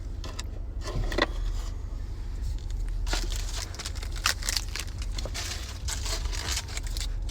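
Baseball card pack being handled and opened: wrapper crinkling and tearing with scattered clicks and rustles of cards, over a low steady hum.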